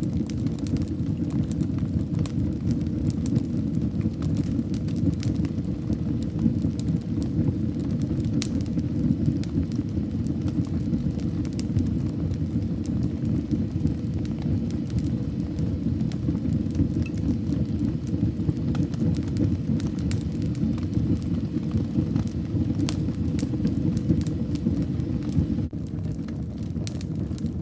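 Fire burning in a fireplace: a steady low rumble of flames with frequent sharp crackles and pops scattered throughout. The rumble dips slightly near the end.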